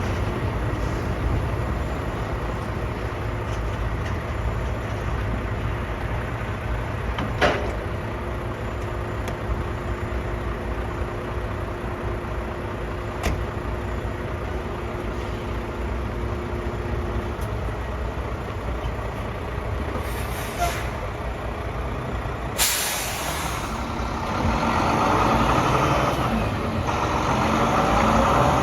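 Volvo D13 diesel engine of a roll-off truck running steadily, with a few sharp clicks. A short air hiss about two-thirds of the way in is followed by a loud, fading air-brake hiss, and then the running grows louder near the end.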